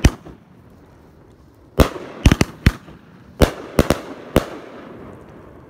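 Shells of a 500-gram Dominator Killer Robot fireworks cake bursting overhead with really loud breaks. There is one sharp bang at the start, then about eight more bangs in quick succession from about two to four and a half seconds in, each dying away in a short echo.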